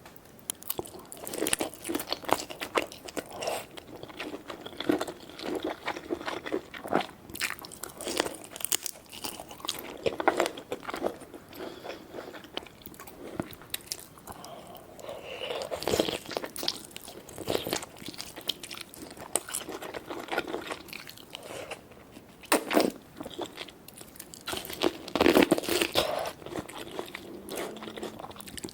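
Close-miked eating of seafood: irregular crunching, biting and chewing with many sharp crackles.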